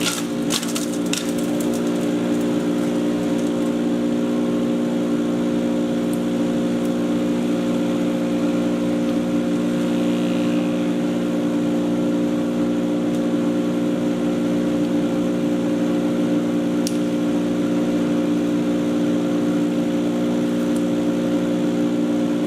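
Patriot 1.5-HP electric chipper shredder running with a steady hum. A few sharp crackles in the first second as the last of the material is chipped; after that it spins with nothing going through.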